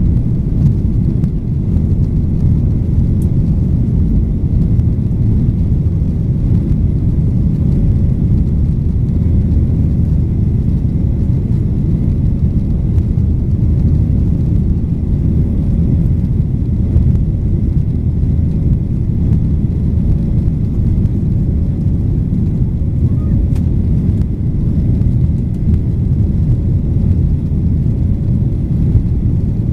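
Boeing 737-800's CFM56 jet engines droning steadily, heard inside the passenger cabin: a dense, unchanging low rumble with a faint steady hum above it.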